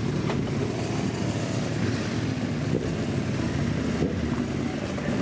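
Motorcycle engines running, a steady low rumble.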